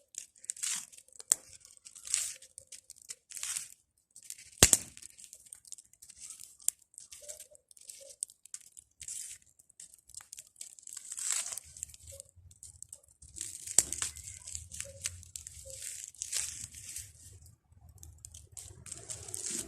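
Bonfire of pruned garden branches crackling, with irregular pops and hissing snaps and one sharp louder pop about four and a half seconds in. A low rumble joins from about twelve seconds in.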